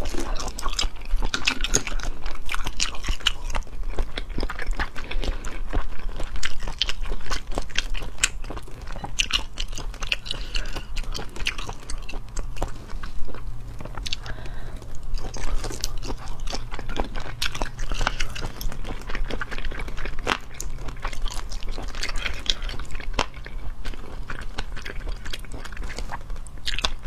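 Close-miked chewing and biting of spicy shellfish meat: many short, crunchy clicks and wet mouth smacks. A low, steady hum sits underneath.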